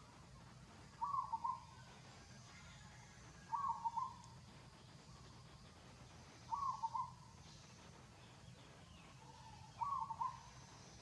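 An animal calling four times, about three seconds apart: each call a short cluster of quick, fairly high notes.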